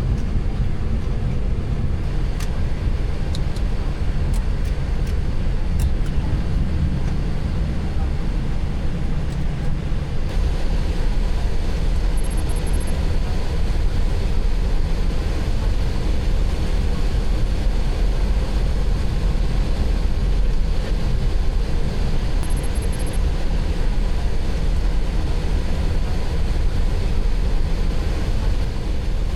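Boeing 737-800 cockpit noise on the ground just after landing: a steady rumble of engines and rolling wheels that grows fuller and louder about ten seconds in. A few faint clicks come early on.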